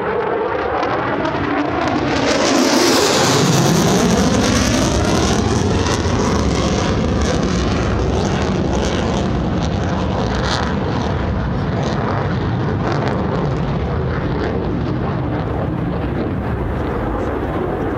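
F-35 Lightning fighter jet with its single F135 turbofan making a fast, low pass. The roar swells to its loudest about three seconds in, with a sweeping shift in pitch as it goes by, then carries on as a steady rumble as the jet moves away.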